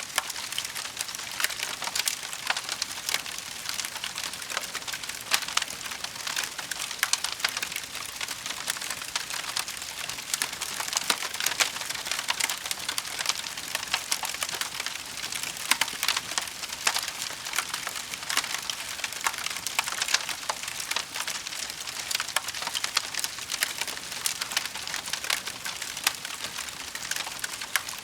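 Burning wood crackling: a steady hiss dotted with many small, irregular pops and snaps.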